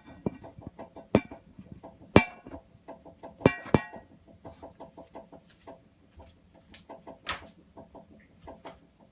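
Water heater making a rapid, even ticking, about six ticks a second, broken by a few louder knocks.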